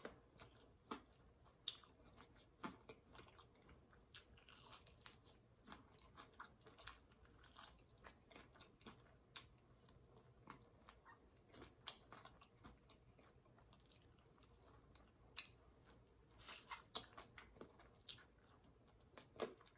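Faint, close-miked chewing and biting into crispy fried chicken drumsticks in garlic buffalo sauce: irregular crunches and wet chewing clicks, with a louder run of crunches late on.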